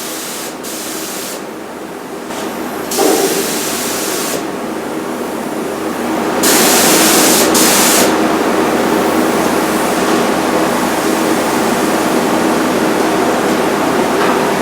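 Paint spray gun hissing in several short bursts as its trigger is pulled, while spraying two-part epoxy primer, the longest burst about a second and a half. Under it a steady machine hum runs on and grows louder about halfway through.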